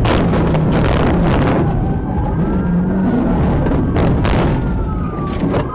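A run of loud bangs and thuds over background music, with a police siren starting to wail near the end.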